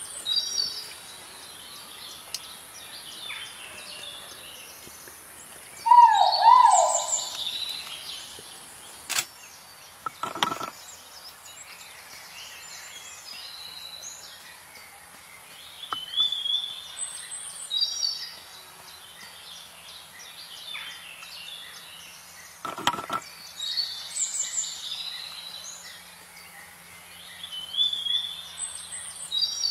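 Forest birds calling over a steady high background drone. A short whistled phrase repeats every few seconds, and a louder burst of calls comes about six seconds in.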